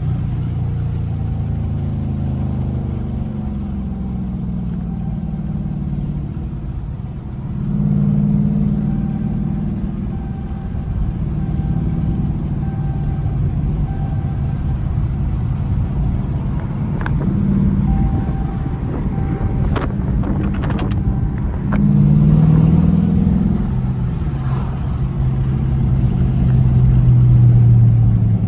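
A 2023 Dodge Charger R/T's 5.7-litre HEMI V8 under way, its note rising and falling with the revs. It pulls hard about eight seconds in, again around 22 seconds in, and in a longer surge near the end. A few sharp clicks come around 17 to 21 seconds in.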